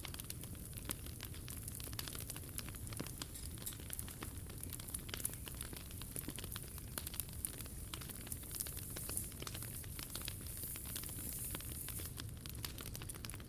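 Wood fire crackling in a POMOLY T-Brick Ultra fire pit: many small sharp pops and snaps, irregular and continuous, over a low steady rumble.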